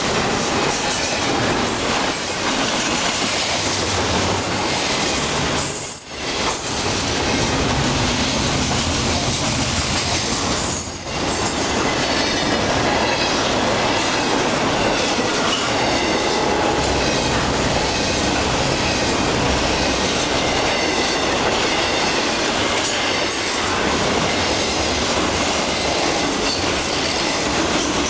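Intermodal freight cars of a long CN train rolling past close by: a steady loud rumble of steel wheels on rail with clickety-clack over the joints and high wheel squeal. The sound drops briefly twice, about six and eleven seconds in.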